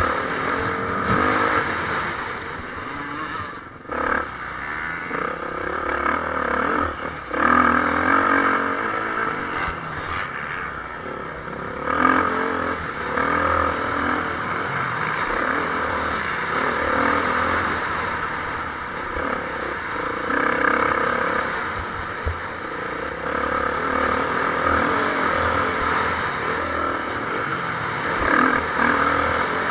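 Motocross bikes racing on the track: several engines revving up and dropping off as riders accelerate and pass, with louder surges about seven and twelve seconds in and again near the end.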